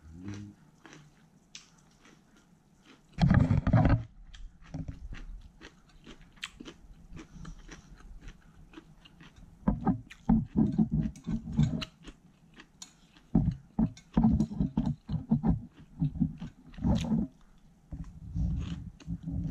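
Close-miked chewing of lettuce-wrapped thin-sliced pork belly: wet mouth noises, crunching and smacking in irregular bursts. One louder noise under a second long about three seconds in, and steadier chewing in the second half.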